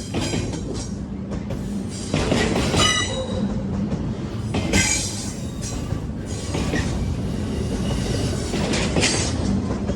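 A train rolling past with a steady rumble of wheels on rail, broken by several short bursts of high-pitched wheel squeal: about two seconds in, around five seconds and near the end.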